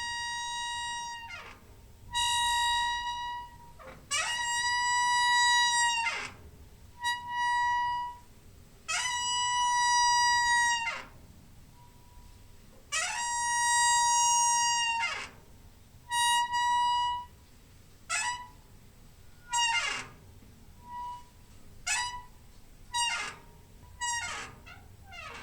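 Door hinge squeaking again and again: long, high-pitched creaks, each held on one pitch and ending in a falling glide, with shorter, quicker squeaks in the last few seconds.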